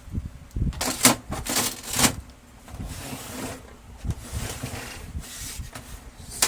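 Brother DCP-L2540DW laser printer making sharp plastic clicks, three within the first two seconds, followed by a stretch of rubbing and rattling from its plastic parts and mechanism.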